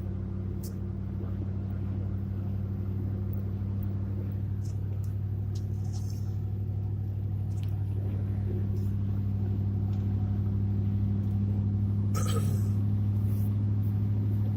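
Steady low drone of a pickup truck's engine and road noise heard from inside the cab while cruising, growing slightly louder toward the end.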